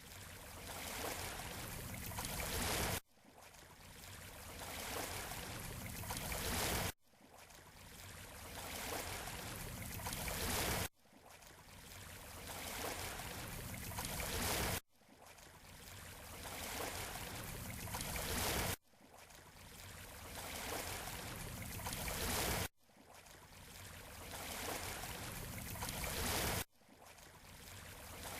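Recorded beach surf noise playing as a short loop that repeats about every four seconds. Each cycle swells up gradually to a peak, cuts off suddenly into a brief gap, then starts again.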